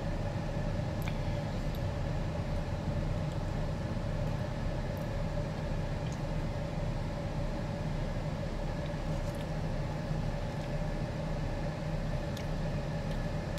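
Steady hum of an idling car heard from inside the parked car's cabin, with a few faint clicks over it.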